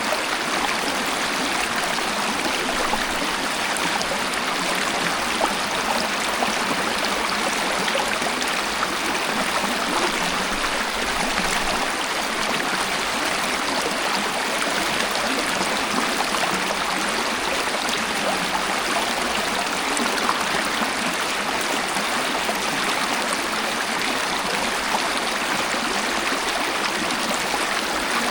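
Waterfall: water falling and flowing in a steady, even rush that neither rises nor falls.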